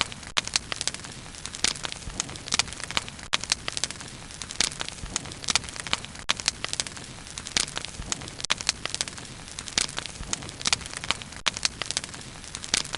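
Wood fire burning with frequent sharp, irregular crackles and pops over a soft steady hiss.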